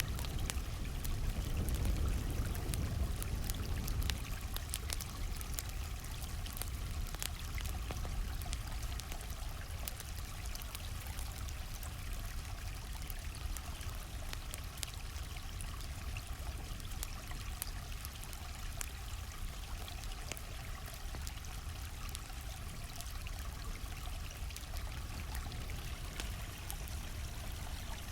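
A stream flowing steadily, with the sharp crackles and pops of a wood campfire scattered through it. The water is a little louder and deeper for the first few seconds.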